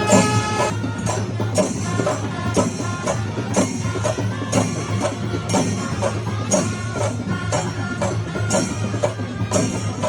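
Kerala temple festival percussion ensemble playing a steady rhythm, hand cymbals clashing about once a second over the drumming. A held horn-like note sounds briefly at the very start.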